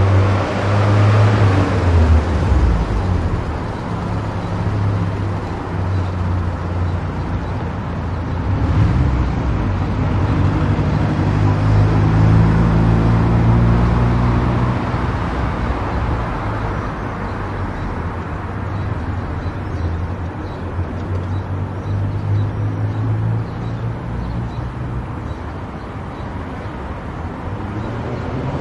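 A car at highway speed: steady engine hum and tyre road noise that swells and eases without a break.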